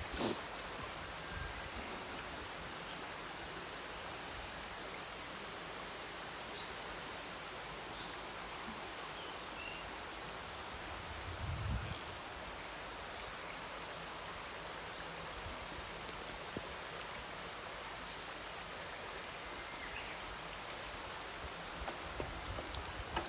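Steady outdoor background hiss, with a few faint short high chirps and a dull low thump about twelve seconds in.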